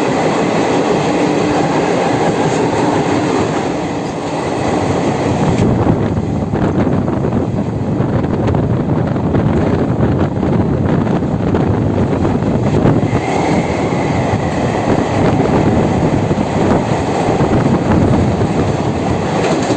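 Train running at speed, heard from on board: a loud, steady rumble of wheels on rails, with a brief faint squeal about two-thirds of the way through.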